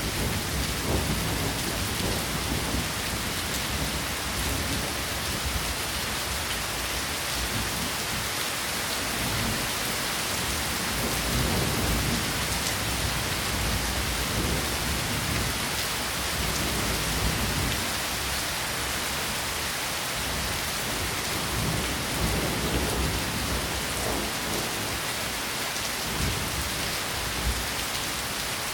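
Steady rain falling, an even hiss of many drops, with low rumbling swells that come and go.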